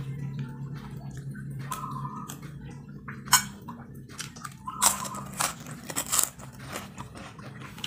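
A person chewing food close to the microphone, with a metal spoon scraping and clinking on a ceramic plate; several sharp clinks fall in the second half, the loudest about three seconds in.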